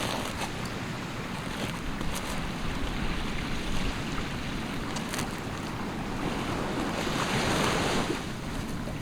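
Ocean surf washing onto a beach, a steady rush that swells louder about seven seconds in as a wave breaks, with wind buffeting the microphone.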